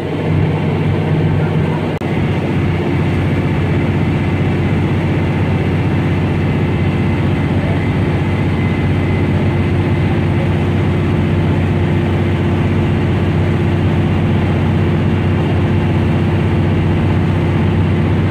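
Tour boat's engine running steadily under way: a low, even drone whose tone shifts slightly about two seconds in.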